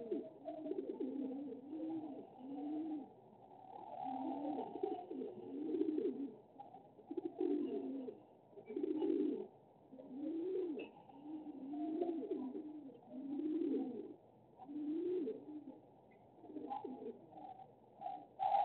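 A bird cooing over and over, low rising-and-falling coos repeated about every second, with a sharp click near the end.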